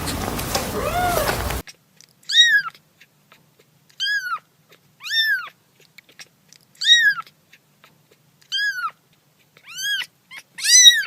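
Kitten meowing repeatedly: about eight short, high-pitched meows, each rising then falling in pitch, spaced roughly one to two seconds apart.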